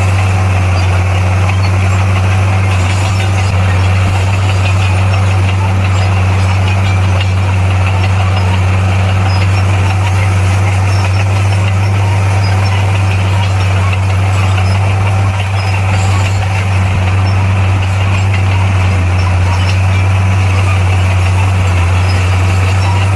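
Heavy construction machine's diesel engine running steadily with a deep, even hum and no change in pace.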